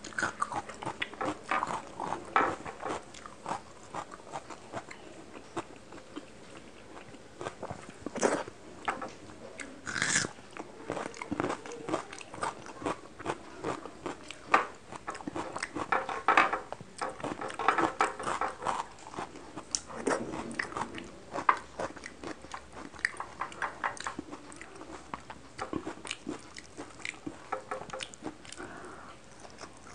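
Close-miked eating of fish curry and rice: irregular wet chewing and lip-smacking clicks, with squelches of fingers mixing food on the plate.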